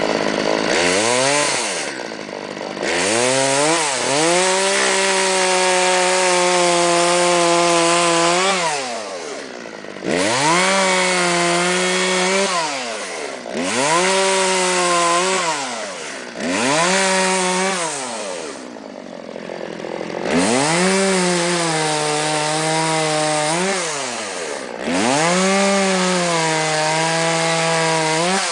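Two-stroke chainsaw cutting into wood, revved up again and again: the engine climbs to a steady high speed, holds there for a few seconds through each cut, then drops back, over and over.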